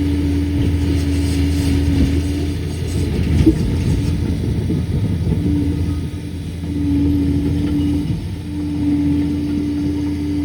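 Liebherr PR 746 crawler dozer's diesel engine running under work, with a low hum and a steady whine that cuts out and returns several times. There is a single knock about three and a half seconds in.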